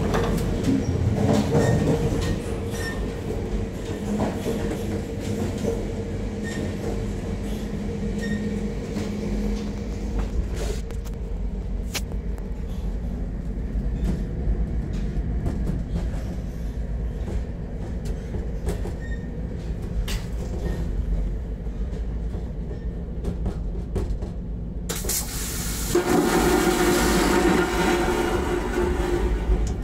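Moving passenger train on the rails, a steady low rumble with scattered clicks from the wheels. A louder rushing noise sets in near the end.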